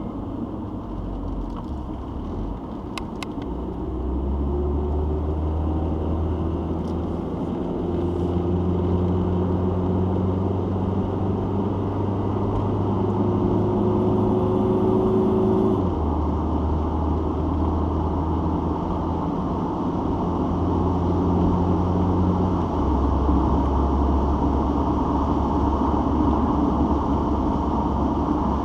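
Citroen XM driving along, its engine and road noise making a steady low drone. The pitch of the drone shifts in steps several times.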